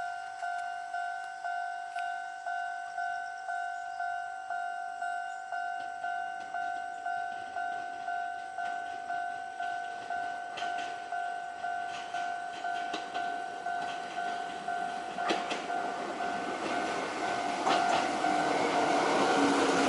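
Electronic level-crossing warning bell ringing in an even, repeating two-tone pulse, a little under two strikes a second. The noise of an approaching Chichibu Railway train builds under it over the last few seconds.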